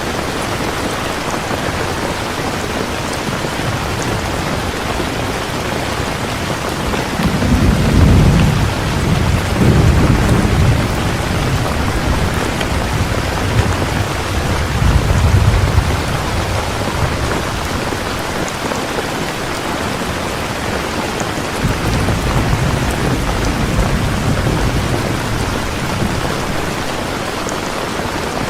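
Steady rain falling, with low thunder rumbling in several swells: a long roll from about seven to eleven seconds in, a shorter one around fifteen seconds, and a fainter one in the last third.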